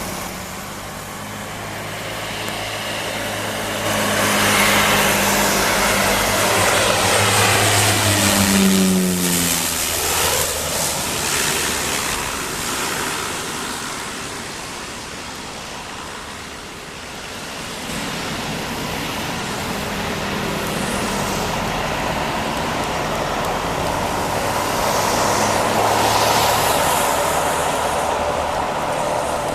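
Cessna 208 Caravan's single turboprop engine and propeller growing louder as it passes close by, its pitch dropping steeply about nine seconds in; the engine then drones steadily and swells again toward the end.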